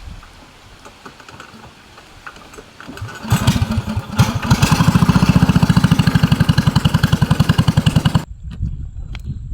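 A small engine starts about three seconds in and runs with a fast, even putter, then stops abruptly near the end.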